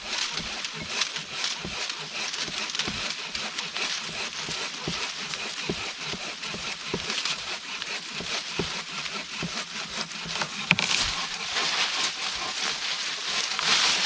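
Silky BigBoy 2000 folding saw cutting through a green, unseasoned tree trunk with fast, steady back-and-forth strokes.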